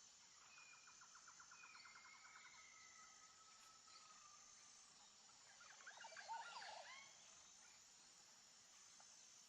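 Faint outdoor ambience with birds calling: a rapid trill in the first two seconds, a couple of long drawn whistles, and a quick burst of chirping notes about six seconds in. Under it runs a thin, steady high-pitched insect-like buzz.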